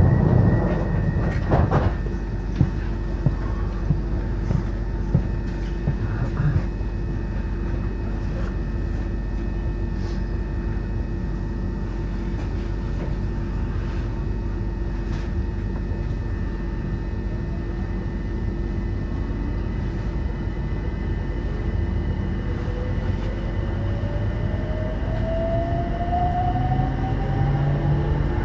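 Electric train heard from inside the carriage: a steady hum while it stands at the platform, with a few clicks and knocks in the first seconds. In the last third the traction motors' whine rises in pitch as the train pulls away and gathers speed.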